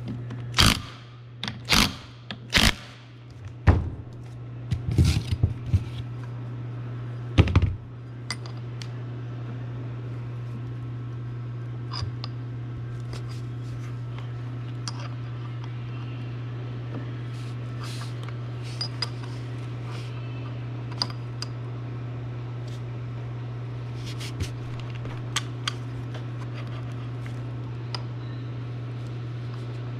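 A run of sharp knocks and clicks from hard objects being handled, thick in the first eight seconds and then only now and then, over a steady low hum.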